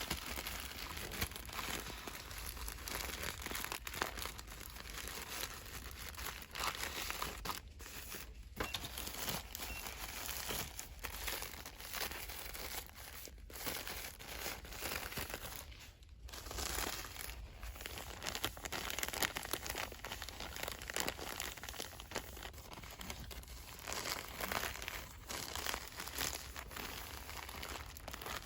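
Hands rapidly crinkling and rustling the plastic wrapping of cosmetic products, a fast, continuous crackle with a few brief pauses.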